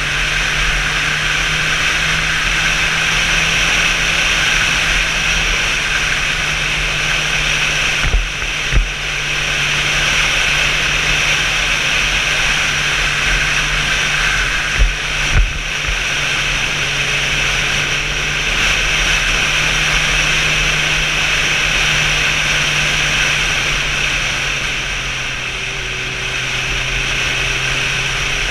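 Motorcycle riding at a steady speed: the engine's even drone under heavy wind rush over the microphone. Two pairs of short thumps come about eight and fifteen seconds in.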